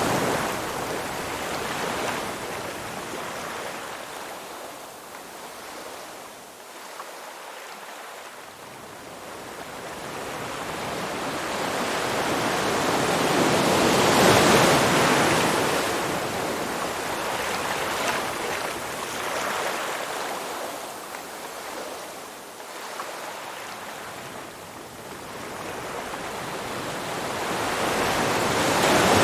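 Ocean surf: waves breaking and washing back, the rush of water swelling and fading about every fifteen seconds.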